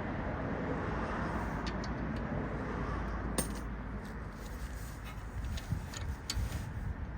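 Scattered light metallic clinks and taps of tools and parts being handled during brake work on a car, over a steady outdoor rush.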